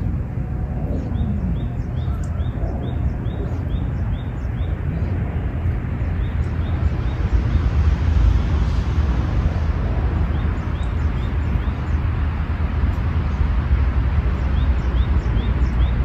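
Outdoor park ambience: a steady low rumble of distant everyday noise that swells into a broader hiss about halfway through, like something passing at a distance. Over it a bird gives runs of short high chirps, a few a second, near the start, again after the swell, and near the end.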